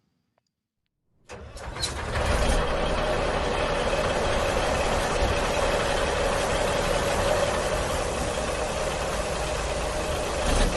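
A train running: a steady mechanical rumble with a constant hum, starting suddenly a little over a second in.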